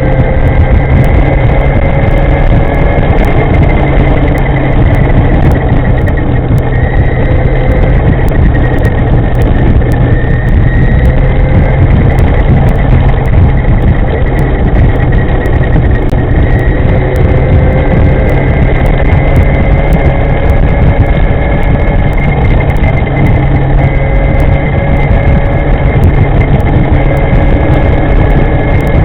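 Loud, steady wind and road rumble on the microphone of an electric scooter being ridden. A thin whine from the e-moving scooter's upgraded V200 electric motor drifts slightly up and down in pitch as the speed changes.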